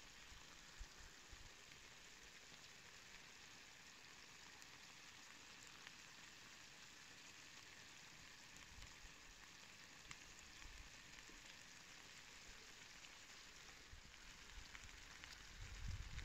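Chicken pieces in tomato and pepper sauce sizzling faintly and steadily in a wide steel sac pan over a fire. A low rumble comes in near the end.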